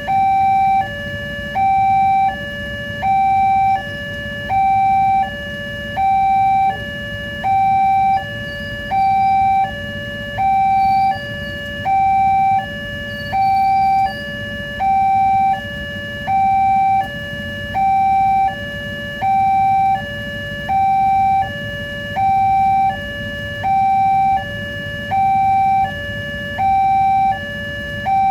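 Railway level-crossing warning alarm sounding a steady two-tone hi-lo signal, a louder higher tone alternating with a lower one about once a second, over a low rumble.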